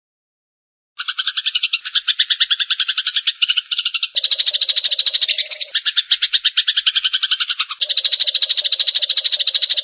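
Sparrows giving rapid, agitated chattering calls typical of fighting, about a dozen sharp notes a second after a second of silence; a second, denser layer of chatter joins about four seconds in.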